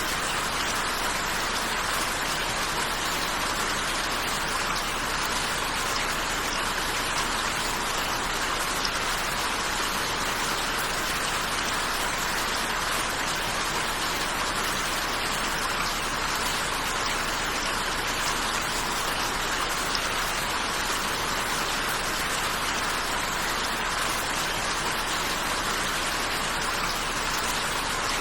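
Steady rain falling, an even hiss of drops that does not change in strength.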